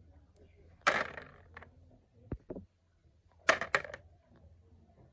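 Small metal engine parts or hand tools clinking as they are set down or knocked on a hard surface: two sharp metallic clinks, each followed by a lighter one, with a few faint clicks between.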